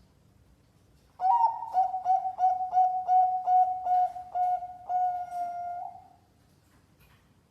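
Zebra dove (perkutut) singing one competition-class song phrase. About a second in it gives an opening note, then a run of about a dozen quick coos at an even pitch, about three a second. It ends on a longer held note, and the phrase lasts about five seconds.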